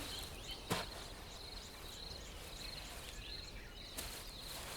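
Faint savanna ambience: an insect trilling at a high, steady pitch in short repeated spells, with small bird chirps and a couple of light clicks.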